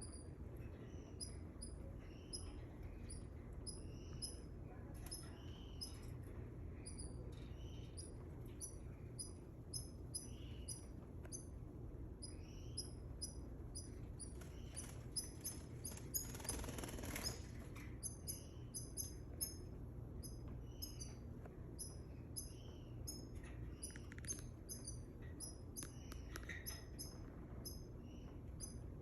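A pair of canaries squabbling: many short, very high-pitched chirps and squeaks in quick succession, with a burst of noise lasting about a second about halfway through.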